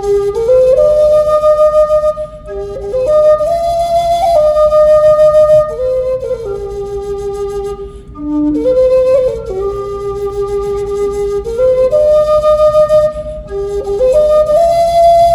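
Music: a solo flute playing a slow melody of long held notes, each note wavering with vibrato, with short breaths between phrases.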